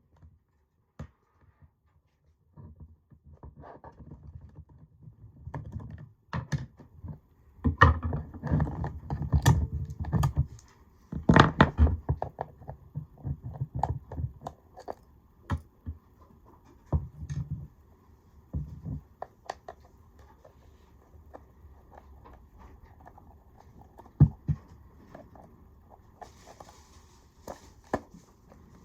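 Hands working with small hard objects: scattered clicks, taps and knocks, busiest and loudest from about 8 to 12 seconds in, then sparser.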